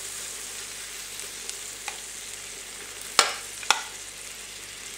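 Beaten egg and sliced sausage sizzling on the hot ribbed plates of an electric contact grill, a steady frying hiss. About three seconds in, two sharp clinks half a second apart, a fork against the glass bowl.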